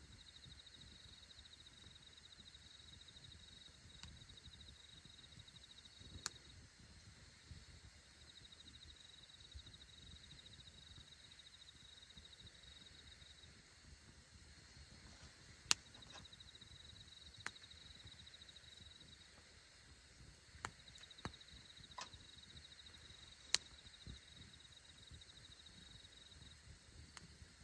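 Wood fire burning quietly, with scattered sharp crackles and pops, two of them much louder, about sixteen and twenty-four seconds in. A high, pulsing insect trill comes and goes behind it.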